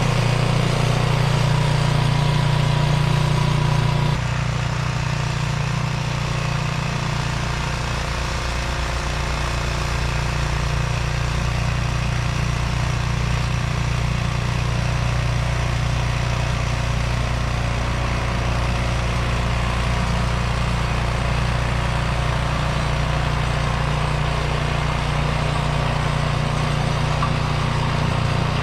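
Walk-behind snowblower's small engine running steadily while clearing snow, its level dropping a little about four seconds in.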